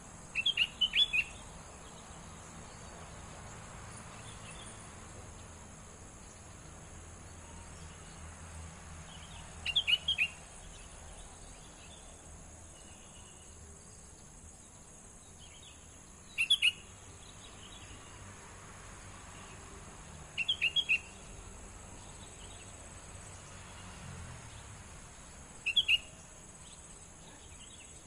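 A young songbird gives five short bursts of three or four quick, high chirps, spaced several seconds apart. A steady high insect trill runs underneath.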